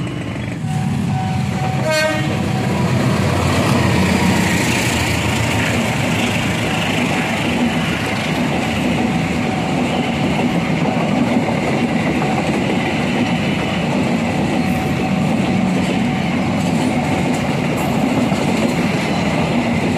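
Passenger train of Indonesian railway coaches passing close by. The wheels rumble and clatter over the rails steadily, and a short horn-like tone sounds about one to two seconds in.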